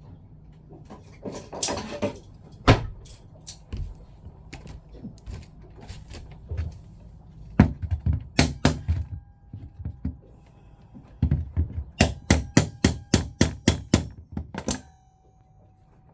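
Hammer knocking on a Jabsco diaphragm pump part that won't seat: scattered single knocks, then a quick run of about ten taps, about four a second, near the end.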